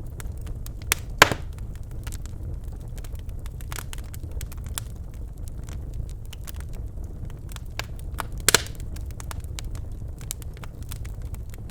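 Birchwood fire burning in a fireplace, a steady low rumble of flame with scattered crackles and two loud pops, about a second in and near the end.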